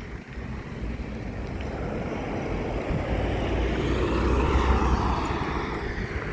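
A vehicle passing by, growing louder to a peak about four to five seconds in, then falling in pitch and fading.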